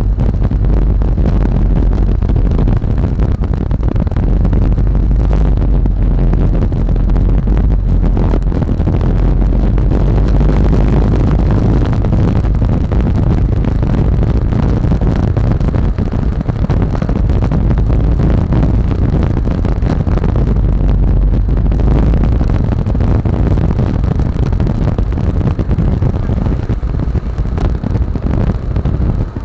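Wind buffeting the microphone on a moving Yamaha Lexi scooter, with the scooter running underneath at steady cruising speed.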